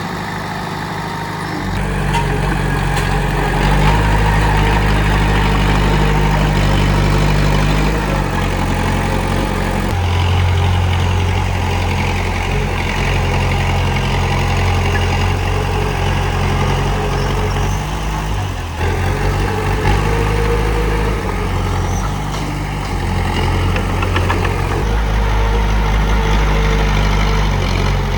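Komatsu D31P bulldozer's diesel engine running steadily, its low engine note changing in strength every several seconds as the load shifts.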